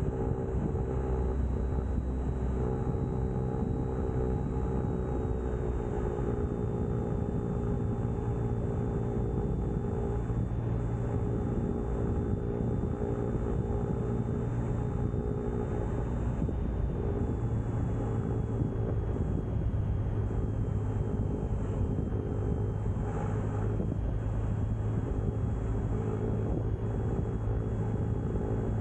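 Cessna 172's piston engine and propeller running steadily at reduced approach power, heard inside the cockpit.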